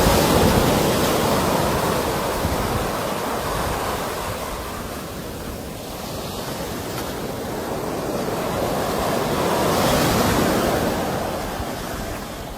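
Sea waves breaking and washing on a shore. The surf swells and fades twice, about ten seconds apart.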